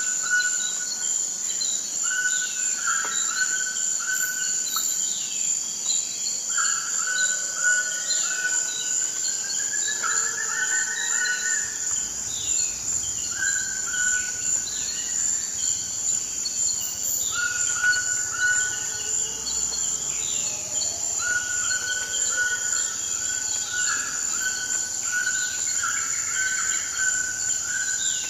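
Forest ambience: a steady, high-pitched drone of insects throughout, with birds repeatedly giving short calls and chirps over it.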